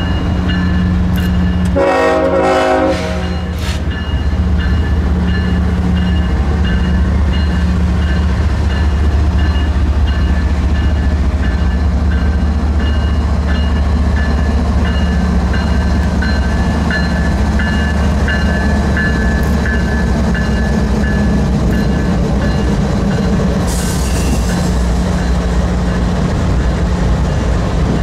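Loaded coke hopper train rolling past: a steady, loud rumble of wheels on rail with faint high wheel-squeal tones. A short horn blast sounds about two seconds in, and a brief hiss comes near the end.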